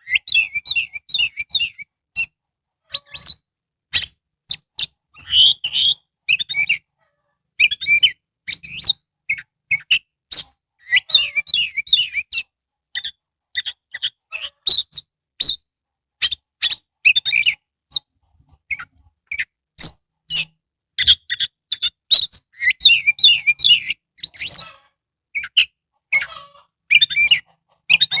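Oriental magpie-robin (kacer) singing: loud sharp whistled notes mixed with fast warbling trills, in short phrases with brief pauses between them.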